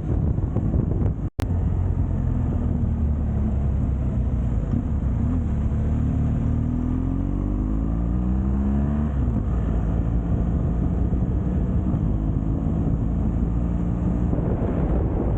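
Motorcycle engine running while riding, its pitch climbing for a few seconds near the middle as it accelerates, then dropping back and holding steady, with wind rushing over the microphone. The sound cuts out for an instant just over a second in.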